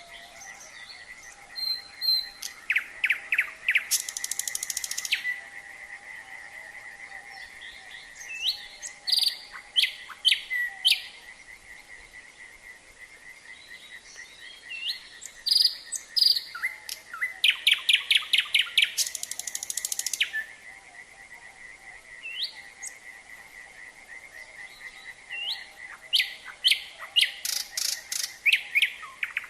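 Nightingale singing in several separate phrases of whistles and fast repeated notes, over a steady, continuous trilling chorus of frogs.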